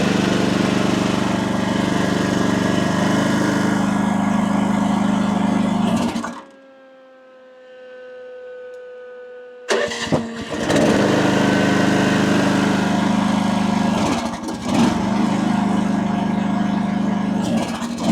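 Mini excavator engine running hard while the boom hydraulics are held deadheaded against a relief valve set too high. About six seconds in it cuts out abruptly, leaving only a faint steady whine, and is running loud again about three seconds later.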